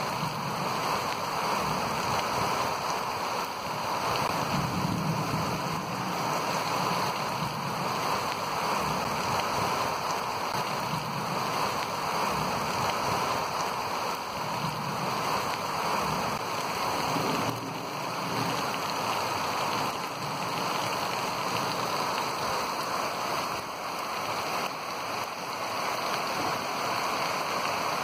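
Heavy rain falling steadily on the ground and paving, a dense, even hiss.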